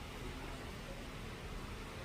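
Steady background hiss, like room tone or ambient noise with nothing distinct in it.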